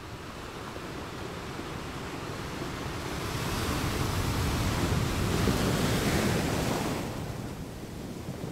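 Sea surf breaking and washing up onto the beach: the rush of water builds from about three seconds in, is loudest a little past halfway, then eases off near the end.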